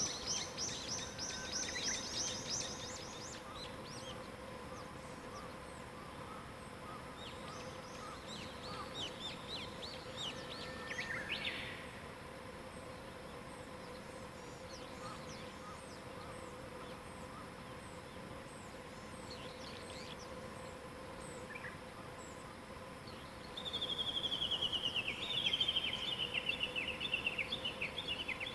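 Wild songbirds singing in a morning chorus, with rapid trilled phrases at the start and in the middle. Near the end comes a louder trill that falls in pitch. A faint steady hum runs underneath.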